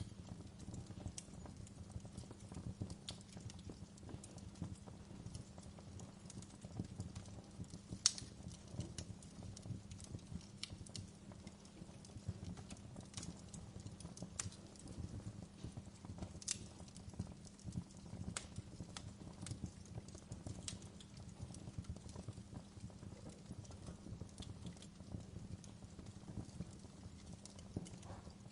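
Wood fire burning in a fireplace: a low, steady rumble of flames with scattered sharp crackles and pops at irregular intervals, the loudest about eight seconds in.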